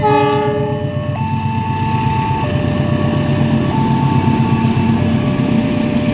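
CC 206 diesel-electric locomotive gives a horn blast of about a second, then runs past hauling passenger coaches with a steady engine and wheel rumble. Over it the level-crossing warning alarm keeps sounding its two-tone signal, stepping between a low and a high tone about every second and a quarter.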